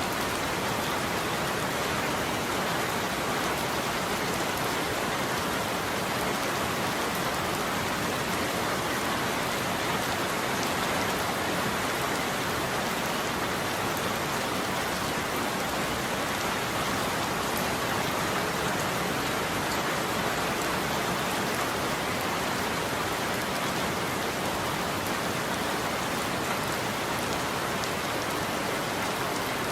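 Steady rain falling on a roof, an even, unbroken wash of rain noise with no thunder.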